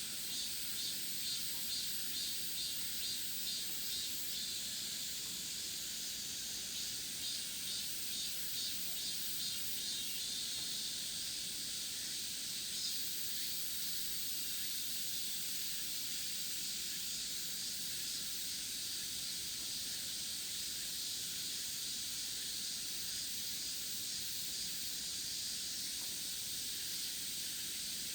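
Cicadas buzzing in chorus, a steady high hiss that pulses about twice a second for the first ten seconds or so, then evens out into a continuous drone.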